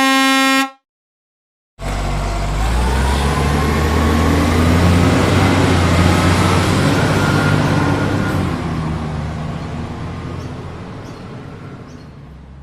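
A short horn honk, then after a moment's silence a heavy vehicle engine starts running loudly with a low steady drone, fading away over the last few seconds.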